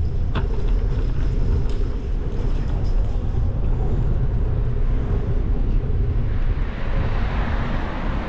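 Steady low rumble of road vehicle noise, with a hiss swelling in the last couple of seconds.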